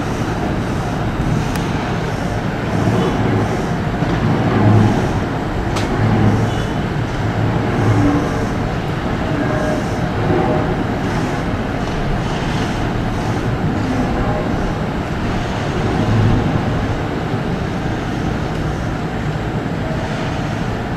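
JR Kyushu 787-series electric train pulling into and standing at a station platform: a steady rumble and hum that swells now and then, with one sharp click about six seconds in.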